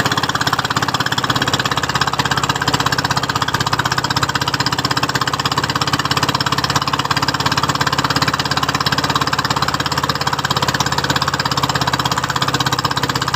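A small boat's engine running steadily at an even speed, its rapid firing pulses unbroken.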